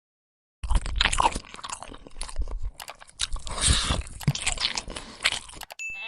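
Irregular crunching and chewing sounds, starting suddenly about half a second in and stopping shortly before the end.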